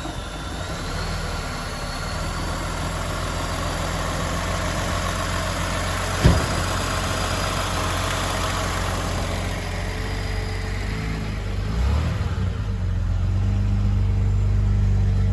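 Car engine idling steadily just after a cold start, having sat unstarted for 30 days. A single sharp click sounds about six seconds in, and the engine grows somewhat louder over the last few seconds.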